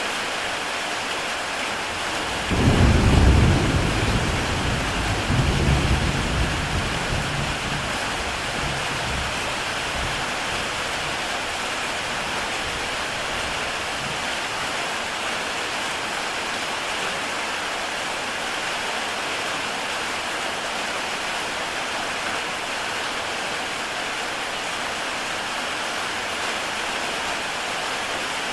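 Heavy rain falling steadily on a tile roof. A low rumble of thunder breaks in a few seconds in, swells twice and dies away over several seconds.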